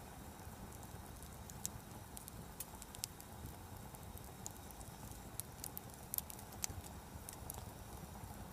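Wood fire crackling in a fire pit: irregular sharp pops and snaps, a few a second, over a low steady rumble.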